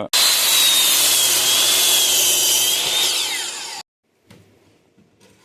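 Power saw cutting through a wooden board: a loud rushing noise with a high wavering whine for nearly four seconds, stopping abruptly, followed by a few faint knocks.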